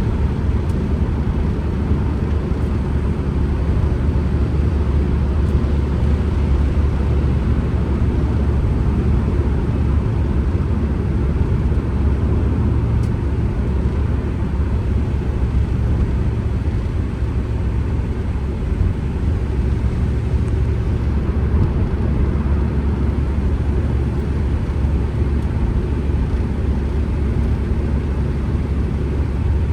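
Ford Transit Connect van driving at a steady pace, heard from inside the cabin: a steady low rumble of engine and road noise.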